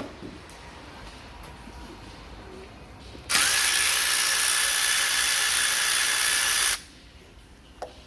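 Cordless power tool running in one steady burst of about three and a half seconds, a whine that rises slightly as it spins up and then cuts off sharply, working a bolt; a couple of light metal knocks follow near the end.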